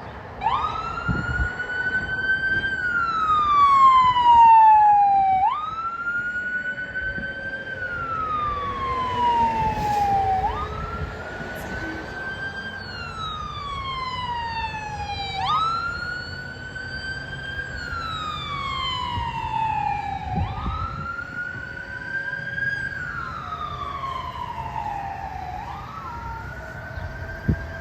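Emergency vehicle siren on a wail cycle. Each cycle jumps up in pitch, then slides slowly down, repeating about every five seconds. It is loudest around four seconds in and a little fainter afterwards.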